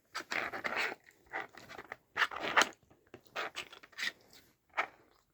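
A dog nosing and sniffing around a plastic treat puzzle, with a run of short, irregular scrapes, clicks and rustles as it searches the compartments.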